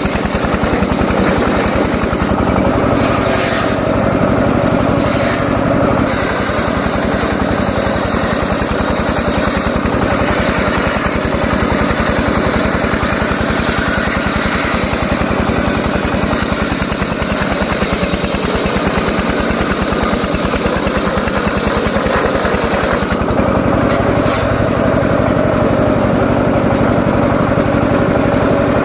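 Small engine running steadily, with a few brief shifts in its sound.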